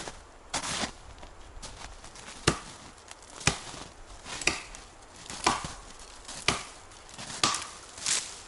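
Repeated chopping strokes, about one a second, each a sharp hit.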